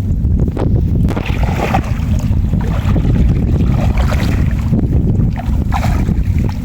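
Wind buffeting the microphone outdoors in a rainstorm, a loud steady rumble, with a few brief rushes of hiss over it from rain and moving water.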